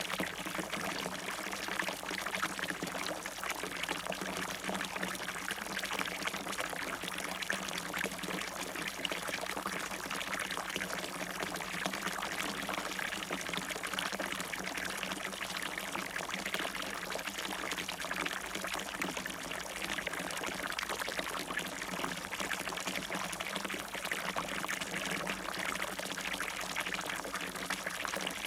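Water splashing steadily in a fountain.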